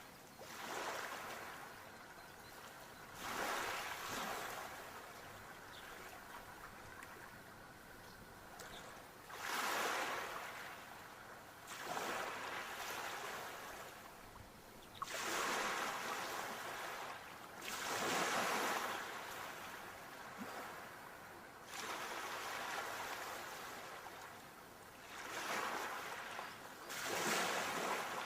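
Sea waves breaking and washing up the shore: a hiss of surf that swells and falls back every two to four seconds.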